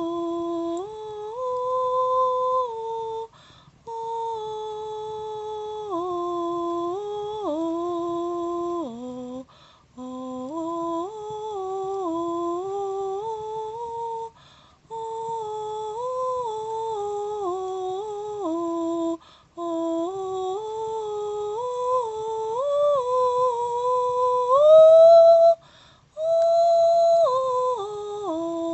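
One person humming wordless light-language toning: long held notes that step up and down in pitch, in phrases broken by a breath about every five seconds. The highest and loudest note, rising, comes near the end.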